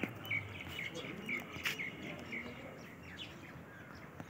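A small bird chirping: a run of short, high notes about twice a second, which stop after about two and a half seconds.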